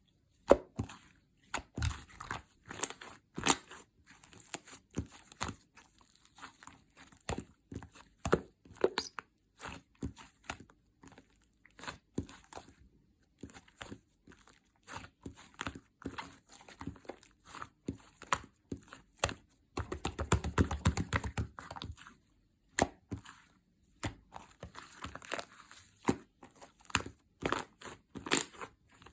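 Clear slime mixed with iClay being squeezed, pressed and stretched by hand, giving a run of sharp wet clicks and pops. There is a thicker burst of crackling about two-thirds of the way in, and a few short pauses.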